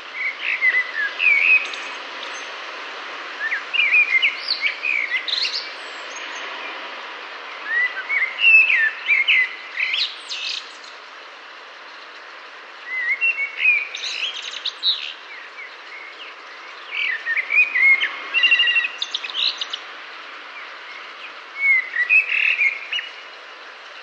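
Bird song in short warbled phrases, six of them a few seconds apart, each running up into higher, twittery notes at its end, over a steady background hiss.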